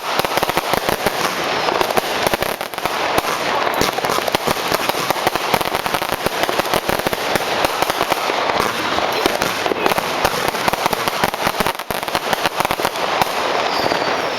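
New Year's Eve fireworks and firecrackers going off continuously, a dense crackle of many bangs and pops with no let-up.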